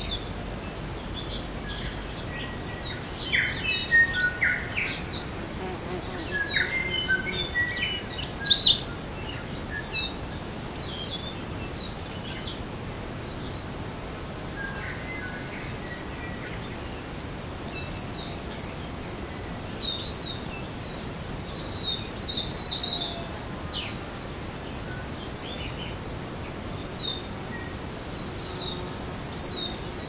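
Wild birds singing and calling: quick chirps and short whistles at several pitches, busiest in the first ten seconds and again around twenty seconds in, over a steady background hiss.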